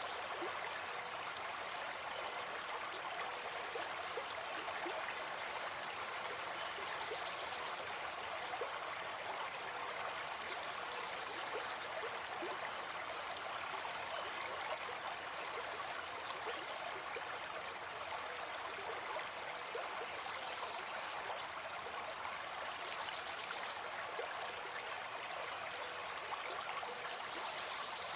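Gentle forest stream flowing steadily, water running over stones with small gurgles and trickles throughout.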